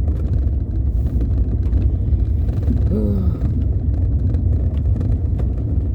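Car moving slowly, a steady low rumble of engine and road heard from inside the cabin, with a brief vocal sound about three seconds in.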